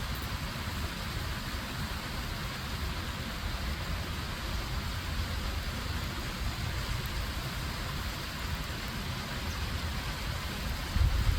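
Bubbling stream and falling water making a steady rushing hiss, with a brief louder low rumble near the end.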